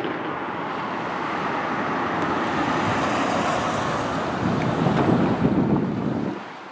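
Street traffic: a road vehicle passing by, its tyre and engine noise building and then dropping off sharply near the end.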